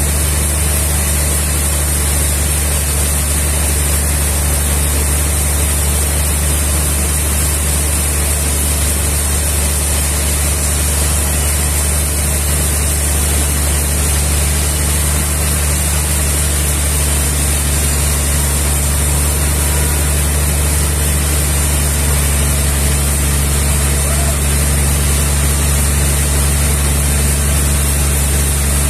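Sawmill machinery running steadily: a constant low engine drone with a steady hiss above it, unchanged throughout.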